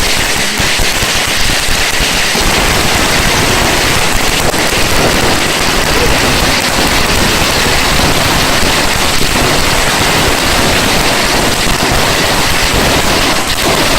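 Long strings of Chinese firecrackers, several lit together, going off in a continuous dense crackle of countless small bangs, running at a steady level without a break.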